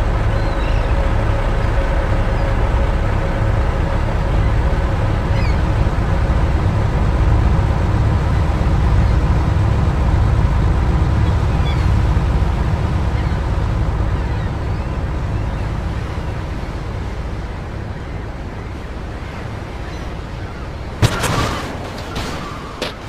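Race car engines running together at a steady pitch, slowly fading away over the last third. Near the end, a sharp bang is followed by a smaller one.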